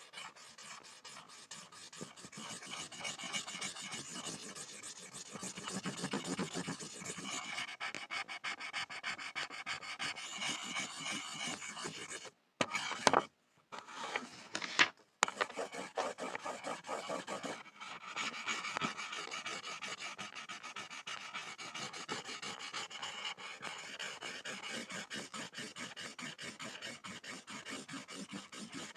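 Pencil scribbling on a board: a continuous dense scratching of quick strokes, breaking off briefly about halfway through, with a couple of sharper strokes in the break.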